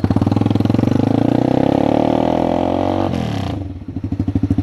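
A 300 cc motorcycle with its exhaust uncapped is blipped from idle in a partial rev, not full throttle. The engine pitch climbs steadily for about three seconds, then falls sharply, and the bike settles back to a loud pulsing idle near the end.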